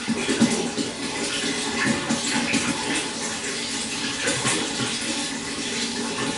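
Pond water trickling and splashing steadily, with many small splashes.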